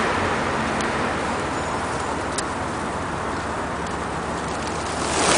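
Steady road-traffic noise from passing cars, with a couple of faint clicks, the sharper one about two seconds in.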